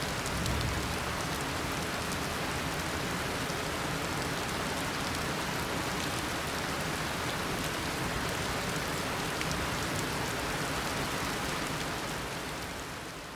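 Heavy tropical rain pouring down in a steady, dense hiss of drops, fading out near the end.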